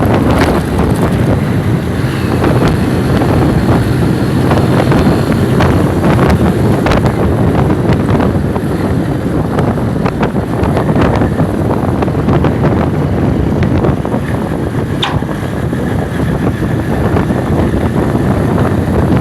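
Loud, steady low rumbling noise, with scattered short clicks and knocks.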